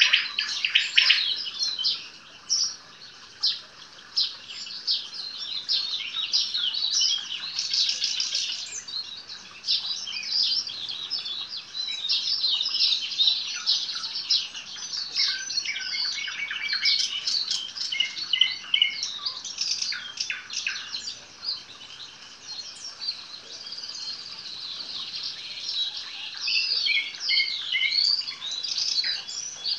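Nightingale singing: a long run of varied phrases of rapid clicks, rattles and whistles, with short lulls about two seconds in and again past the twenty-second mark.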